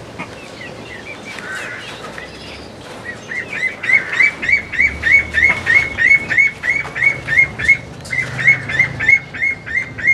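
A bird calling: a long run of short, rising notes repeated about three times a second, starting about three seconds in, over scattered chirps from other birds.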